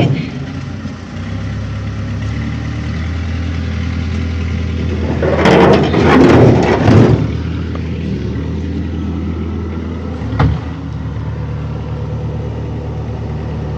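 An engine idling steadily, with a louder rough noise from about five and a half to seven seconds in and a single sharp knock about ten seconds in.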